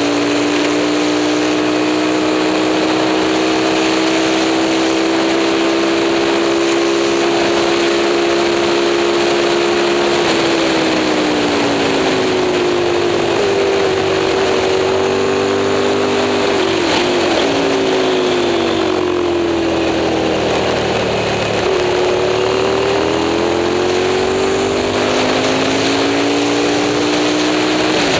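Moto Morini 350 V-twin racing motorcycle engine running hard under throttle. Its revs climb slowly for about ten seconds, then drop and rise several times through the middle, as for gear changes and braking, and climb again near the end.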